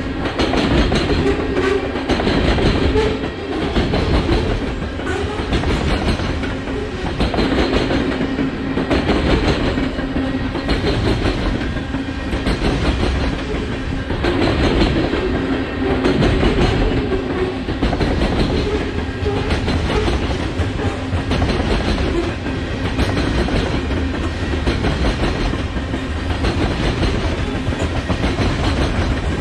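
Grain train's covered hopper cars rolling past close by, their wheels clattering over the rails in a steady, repeating rhythm, the loudness swelling and dipping every couple of seconds as each car goes by.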